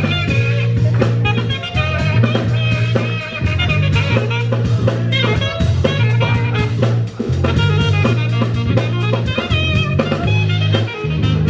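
A live band playing at a concert: drum kit keeping a steady beat under a walking run of low bass notes, with guitar lines on top.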